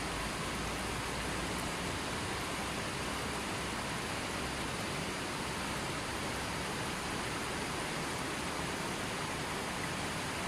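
Steady rushing water: an even, unbroken hiss with no bird calls or other sounds standing out.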